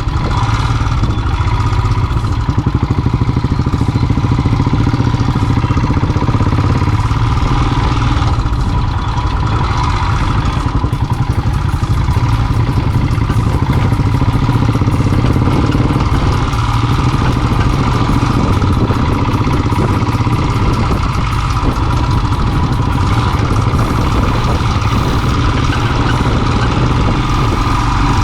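Royal Enfield single-cylinder motorcycle engine running steadily, with no clear changes in revs.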